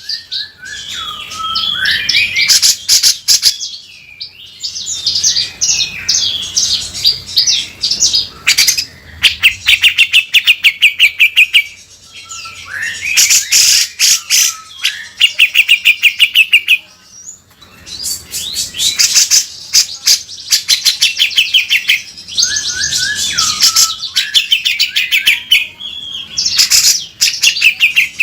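Cucak jenggot (grey-cheeked bulbul) singing loudly and without letup: bursts of fast, harsh rattling trills ("beset kasar") mixed with whistled notes that slide up and down. It comes in repeated phrases of several seconds, with brief pauses between them.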